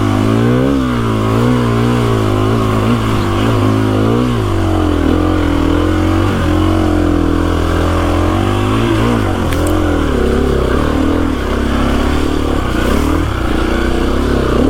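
KTM 350 EXC-F dirt bike's single-cylinder four-stroke engine under way, its revs rising and falling about once a second with the throttle for the first few seconds, then running more steadily with occasional dips.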